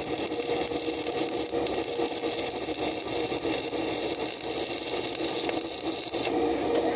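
Stick-welding arc crackling and hissing over the steady hum of the welding machine; the arc breaks off shortly before the end, leaving the hum.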